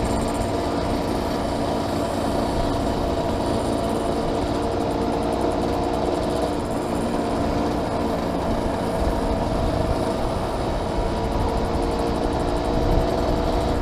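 Small two-stroke motorcycle engine running steadily at cruising speed, with wind noise buffeting a helmet-mounted camera.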